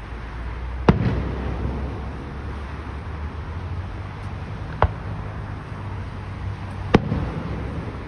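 Aerial fireworks shells bursting: three sharp bangs, about a second in, near the middle and near the end, with a low rumbling echo after the first and last.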